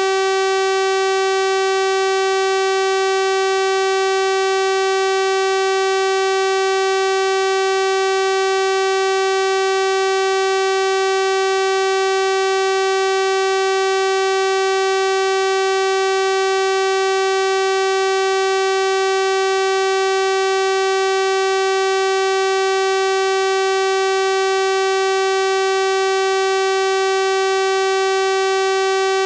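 Synthesized 384 Hz sawtooth-wave tone, a steady buzzy pitch with many bright overtones, unchanging in pitch and level.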